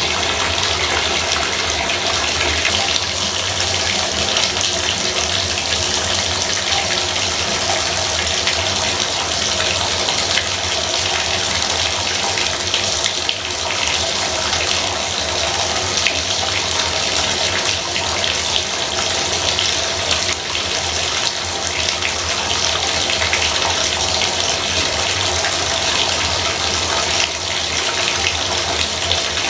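Bathtub faucet running steadily, water pouring into the tub.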